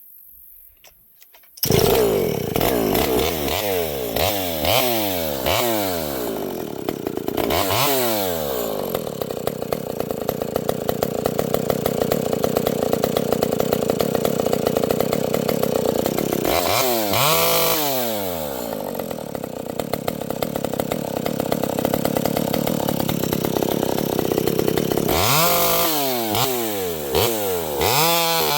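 Vintage Pioneer two-stroke chainsaw starting up loud about two seconds in, revved up and down several times, with long stretches held at a steady, lower pitch between the revs, typical of the saw cutting wood.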